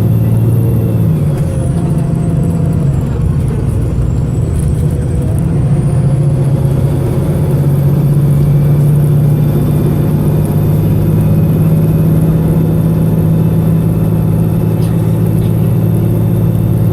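VDL SB200 bus's diesel engine running hard with a steady deep drone and a thin high whine that dips a couple of seconds in and climbs back by about six seconds. The engine is misfiring.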